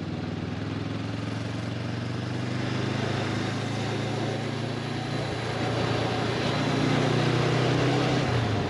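Honda CB500X's parallel-twin engine running at steady road speed with wind rush, a little louder in the second half, its note falling just at the end as the revs drop.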